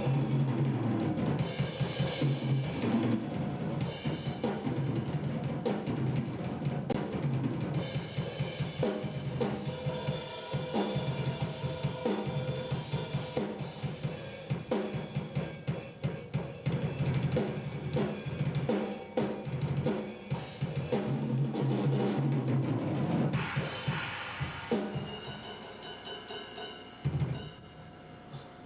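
Acoustic drum kit played around the whole kit for a soundcheck: a dense run of kick, snare and tom hits under cymbal wash. It starts suddenly, thins out, and ends with a last hit near the end.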